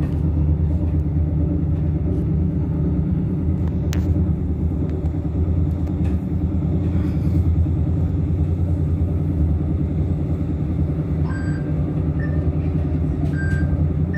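Steady low rumble of a moving passenger train, heard from inside the carriage. A few short, faint high tones come near the end.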